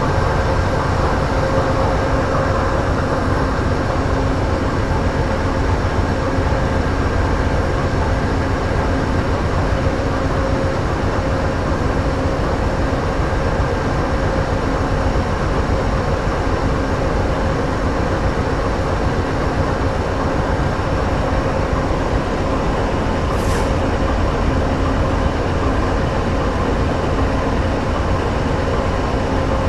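Amtrak passenger diesel locomotives idling steadily while the train stands at the station: a constant engine rumble with a steady hum on top. The trailing locomotive sounds to the observer as though it is doing most of the work.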